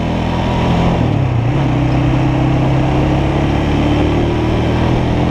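Motorcycle engine running at highway speed with wind rushing over it. Its pitch drops about a second in, then climbs slowly as it pulls.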